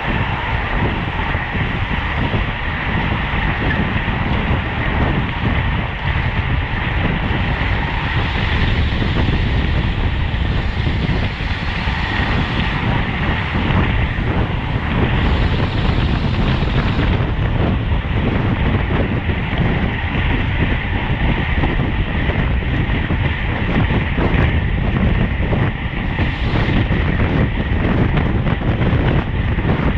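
Wind rushing over the microphone of a road bike moving at race speed, with a steady rumble of tyres on the road and a faint steady high tone over it.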